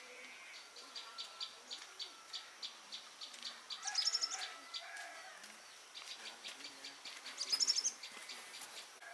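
Small birds calling: a quick high trill comes about every three and a half seconds, and thin chip notes repeat about three times a second between the trills.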